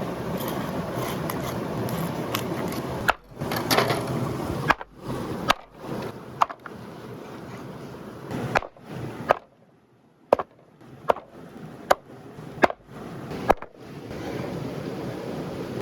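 Steady rushing noise for about three seconds, then about a dozen sharp, irregular knocks on wood, chopping on a wooden surface.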